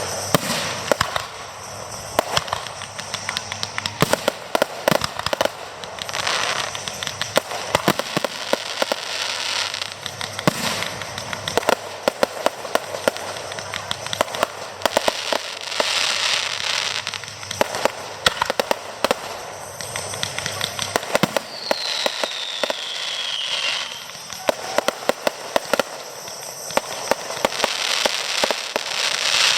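Fireworks display: a steady stream of sharp bangs and cracks, with several stretches of dense crackling. A little past the middle, one whistle falls in pitch for about two seconds.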